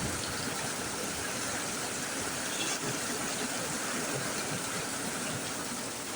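Heavy rain pouring down, with water running and gushing where it floods: a steady, even rush.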